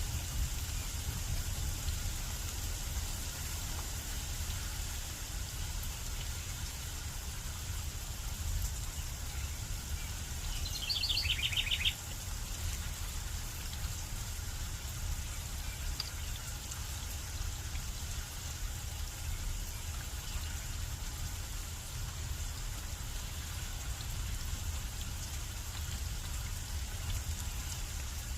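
Steady rain falling, under a steady low rumble. About ten seconds in, a bird gives a short, rapid trill lasting about a second and a half.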